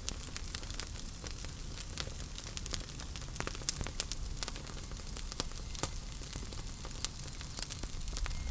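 Wood fire crackling and popping: irregular sharp snaps several times a second over a low, steady rumble of flames.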